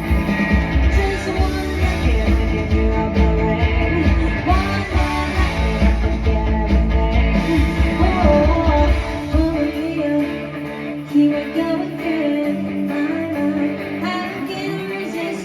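A live band plays a song, with a singing voice over guitar. The low bass drops out about two-thirds of the way through, leaving the voice and higher instruments.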